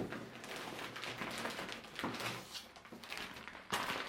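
Cardboard-packaged fireworks being handled: boxes and rocket packs shuffled, knocking and rubbing together, with several light knocks.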